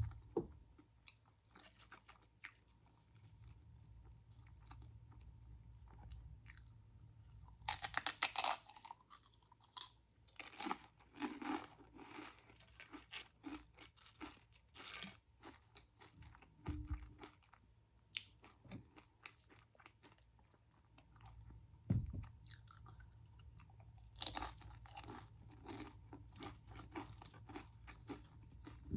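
Close-miked biting and chewing of a crispy-coated Korean corn dog: crunching in loud bursts, heaviest about eight and eleven seconds in and again near the end, with quieter chewing between.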